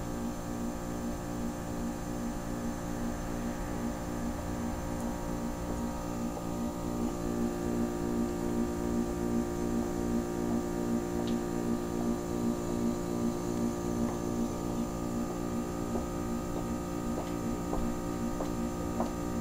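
Goodman heat pump's compressor running in its defrost cycle, a steady hum with a pulsing beat, while the iced outdoor coil steams. A few faint ticks come near the end.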